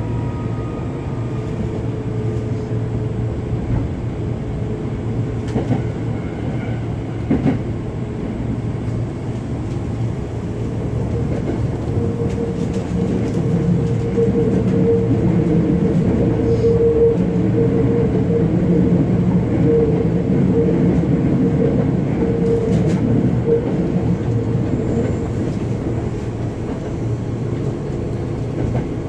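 Running sound of a Hankyu 7000 series electric train heard from inside the car: a steady rumble of wheels and traction motors that grows louder from about twelve seconds in and eases near the end, with a few sharp clacks of wheels over rail joints.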